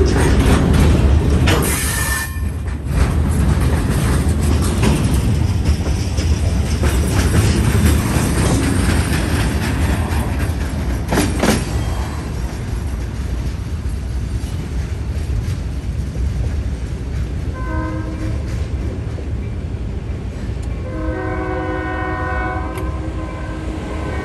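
Freight train cars rolling past, a steady rumble with wheel clatter and a couple of sharp bangs. As the train moves away its multi-chime horn sounds: a short blast about 18 seconds in, then a longer one starting about three seconds later.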